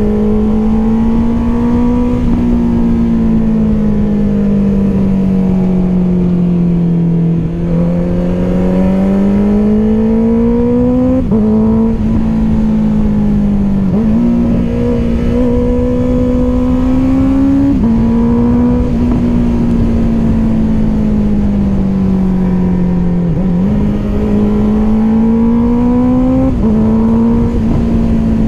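Honda CBR650R inline-four with an Akrapovic exhaust, heard from the bike while riding. The engine pitch climbs under acceleration and drops sharply at several quick gear changes, and sinks slowly while it slows, under steady wind rumble.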